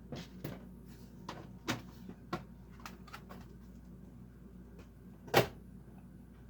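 Diecast toy cars and their plastic packaging being handled: scattered light clicks and taps, with one sharp, much louder knock about five seconds in.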